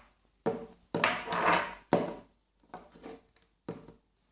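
Small hard objects knocked and set down on a tabletop, about five clattering taps spread unevenly, the loudest near the start.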